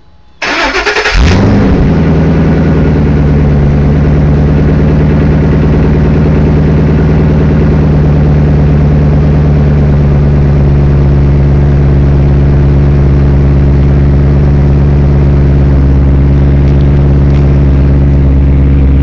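Vehicle engine started from cold: a brief crank of under a second, then it catches and settles into a steady idle.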